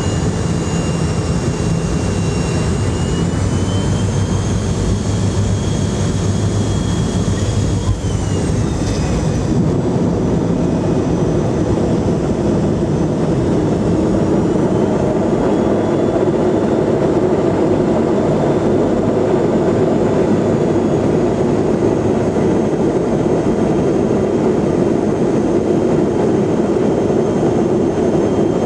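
Twin rear-mounted Pratt & Whitney JT8D turbofans of an MD-88, heard from inside the cabin in a seat beside the engines: a steady roar with high whines. About nine seconds in, the whines slide down in pitch and the highest hiss fades, leaving a steadier, lower roar.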